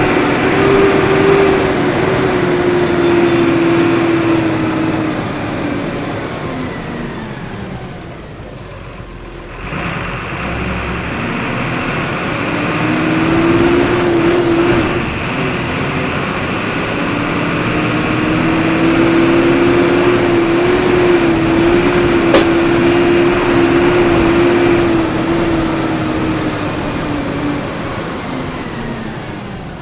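Volkswagen 17.230 EOD bus engine heard from inside the bus, pulling and easing off by turns: its hum rises, sinks away, swells again and holds steady before falling off near the end. A single sharp click comes about two thirds of the way through.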